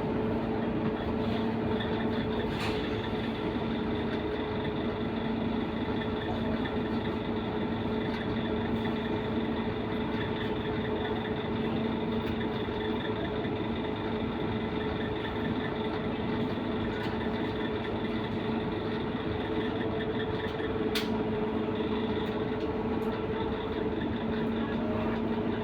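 Scania K230UB Euro V bus running steadily: a constant engine and drivetrain hum with two steady tones over a noisy rumble. There are two brief clicks, one near the start and one about 21 seconds in, and the lower tone drops out for a few seconds around then.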